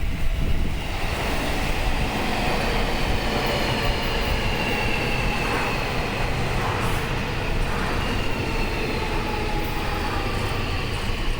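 Seibu 40000-series electric multiple unit pulling into a station and slowing, its wheels and running gear rumbling under a whine that falls steadily in pitch as it brakes.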